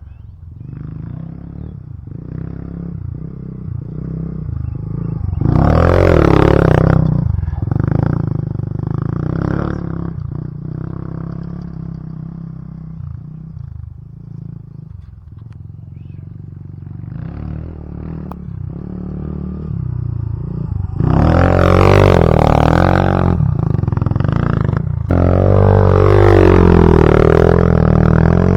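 Dirt bike engine running and being revved off-road, its pitch swinging up and down, with loud revving surges about six seconds in and again from about twenty-one seconds to the end.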